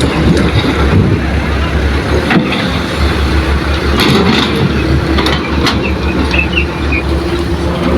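Diesel engine of heavy earthmoving machinery running steadily with a deep hum, with a few sharp metallic clanks about two and a half, four and five and a half seconds in.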